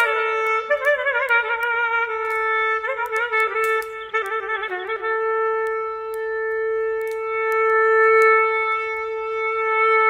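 Clarinet playing a slow melody with quick ornamented turns and trills, then settling about halfway in on one long held note. Faint crackling clicks of a campfire run underneath.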